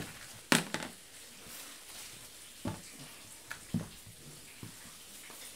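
Steady hiss of falling rain, with a few sharp knocks and clatters; the loudest comes about half a second in, the others scattered through the next few seconds.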